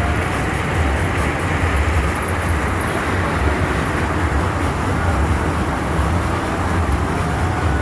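Loud, steady outdoor noise with a heavy, fluttering low rumble.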